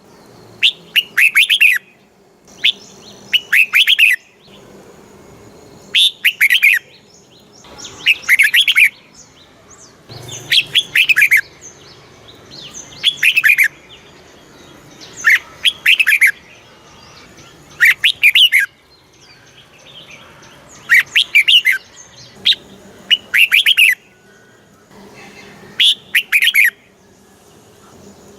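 Red-whiskered bulbul singing, repeating a short phrase of several quick, clear notes about every two and a half seconds.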